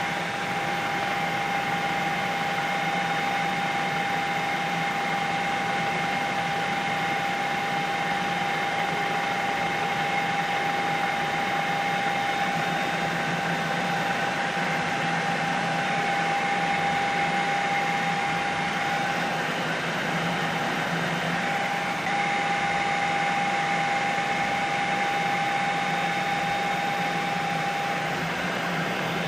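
Helicopter running in flight, heard from inside the cabin: a steady high whine over a constant rushing drone.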